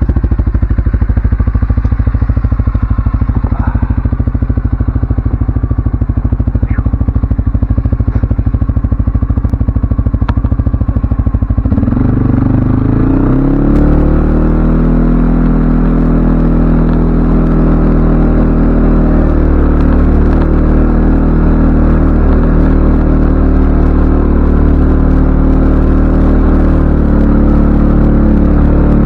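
CFMoto ATV engine running at low speed with a rapid even pulse, then picking up speed about twelve seconds in and holding a higher, steady pitch.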